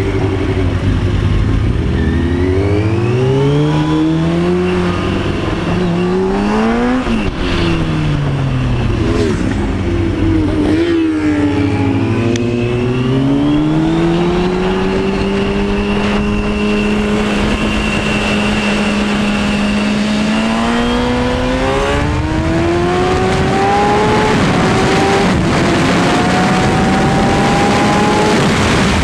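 2003 Kawasaki Ninja 636 (ZX-6R) inline-four engine accelerating hard, its pitch climbing and dropping again and again as it shifts up through the gears. It eases off briefly about seven seconds in, then holds a steady pitch for a few seconds before climbing again. Wind rush over the onboard microphone grows with speed.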